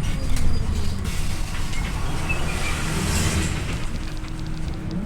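Scania OmniLink I city bus heard from inside while under way: a steady low drivetrain and road rumble, with its whine falling over the first couple of seconds as the bus slows. There is a short hiss of air about three seconds in, and the whine starts rising again right at the end.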